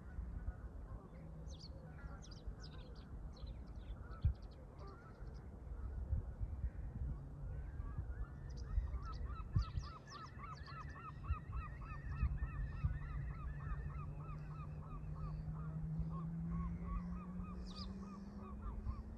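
Canada geese honking in a fast run of calls, about three or four a second, through the middle, with scattered high chirps from other birds. Underneath are wind rumble on the microphone and a low steady hum that rises in pitch near the end.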